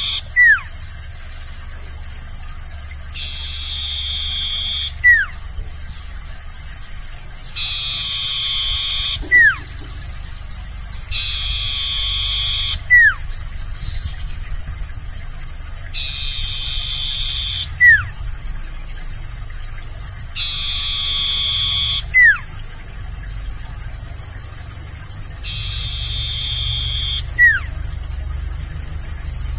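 Sirtu bird singing over and over: each phrase is a buzzy trill about a second and a half long followed by a sharp whistle sliding down in pitch, repeated about every four and a half seconds, seven times. A low hum runs underneath.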